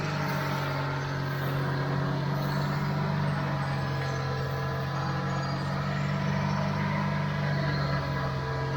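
Off-road motorcycle engine running at steady revs, holding one even pitch, which shifts slightly near the end.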